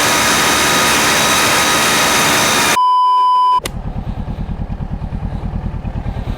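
A loud steady rushing noise cuts off abruptly about three seconds in, followed by a short steady beep. Then the parallel-twin engine of a Kawasaki Ninja 650 with an Akrapovič full exhaust idles, a quick even pulsing from the exhaust.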